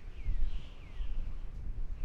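Songbirds calling: several short downward-slurred chirps in quick succession, then softer warbling calls, over a steady low rumble.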